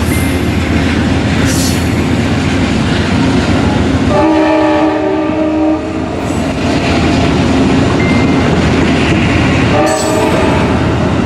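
Amtrak P42DC locomotive's K5LA air horn sounding a horn salute over the steady noise of a passing train. One chord about four seconds in lasts under two seconds, and a shorter blast comes near the end.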